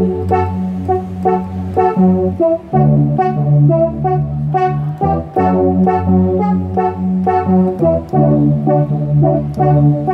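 Yamaha CK61 stage keyboard playing full sustained chords over a held bass line, with a melody moving on top.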